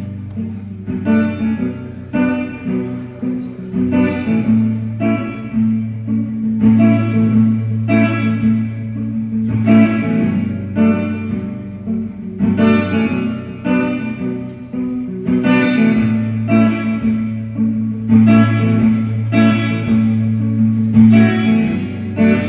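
Guitar playing a song's instrumental intro: plucked chords struck in a steady rhythm over sustained low notes.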